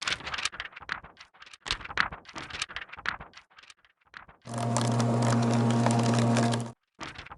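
Paper crinkling and rustling in irregular crackles for about four seconds, then an electric paper shredder's motor runs with a steady hum for about two seconds and cuts off suddenly, followed by more paper crinkling.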